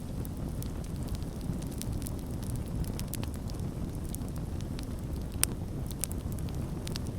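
Campfire burning with a steady low rumble and frequent sharp wood crackles and pops, one louder pop about five seconds in.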